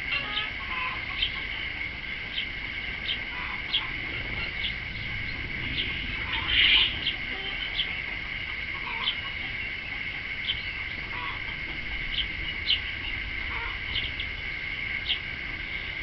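Short, sharp bird calls repeated irregularly about once a second, with a louder, longer call about six and a half seconds in, over a steady high-pitched drone.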